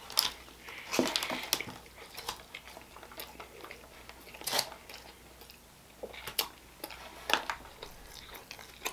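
Close-miked biting and chewing of a hot honey chicken sandwich with crispy chicken strips: a bite about a second in, then chewing with short, irregular clicks and crunches.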